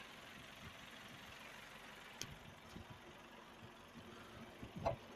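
1997 Ford Telstar's engine idling steadily under the open bonnet, with a single knock near the end.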